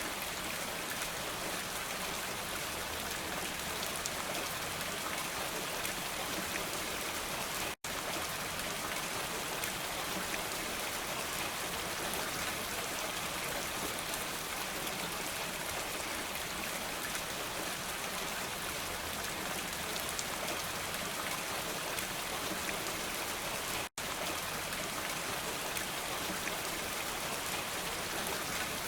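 Steady, dense rain with an even hiss, cut by two split-second dropouts about eight seconds in and again near twenty-four seconds in.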